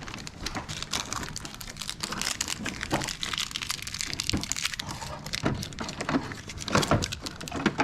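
Crinkling and crackling of plastic packaging being handled, with many small irregular clicks and taps.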